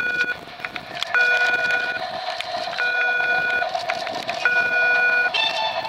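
A steady electronic beeping tone sounding three times, each beep lasting a little under a second with pauses of about the same length, over a continuous hiss.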